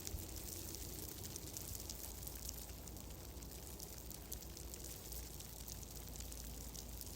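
Wood fire crackling in a fireplace: a steady stream of small, sharp crackles over an even low rumble.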